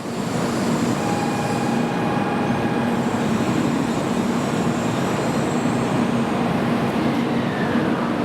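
A 700 series Shinkansen train running, a steady rumble with a low hum; higher steady whining tones come in about a second in, and a tone falls in pitch near the end.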